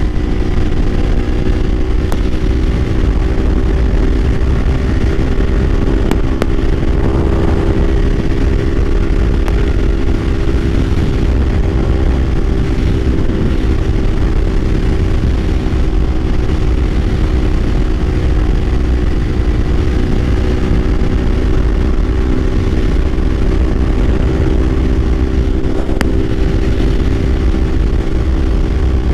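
Kawasaki Ninja 500's parallel-twin engine running at a steady speed while cruising, with a steady low wind rumble on the microphone.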